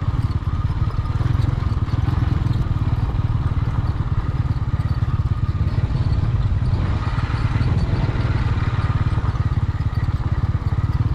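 Motorcycle engine running steadily, its rapid firing pulses even and unbroken.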